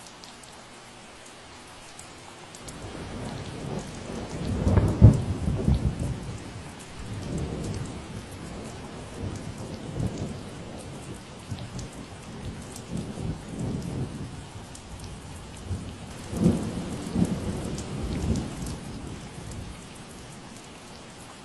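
Steady rain falling and pattering, with a long roll of thunder rumbling underneath. The thunder builds a few seconds in, swells twice with crackling peaks, and dies away near the end.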